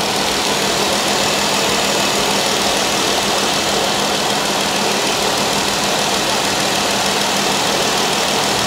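2014 Jeep Wrangler's 3.6-litre Pentastar V6 idling warm during coolant bleeding, under a steady loud rushing hiss of moving air.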